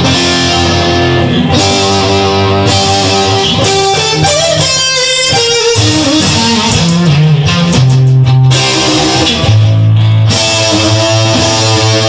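Instrumental rock music: electric guitar playing sustained chords and notes over bass guitar.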